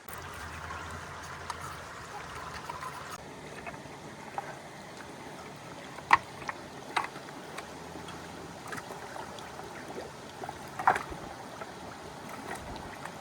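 Steady rushing water, with a few sharp knocks, the loudest about six seconds in.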